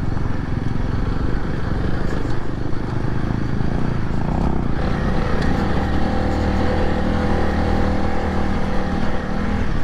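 Motorcycle engine running under load, its note uneven at first and settling into a steady pitch about halfway through.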